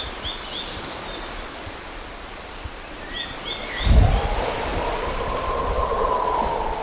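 Outdoor nature ambience: a steady rushing hiss with short runs of high bird chirps, and about four seconds in a low thud followed by a swelling rush of noise lasting a few seconds.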